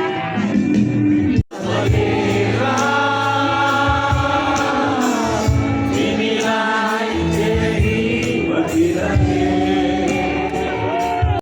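Live concert music with singing over a band. The sound cuts out for a moment about one and a half seconds in, then the music resumes.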